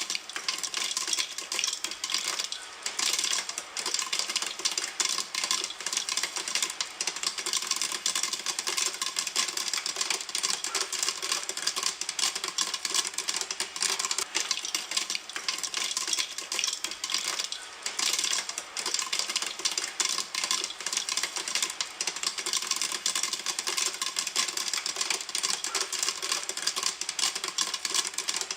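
Popcorn kernels popping in a pan: a dense, steady stream of sharp pops.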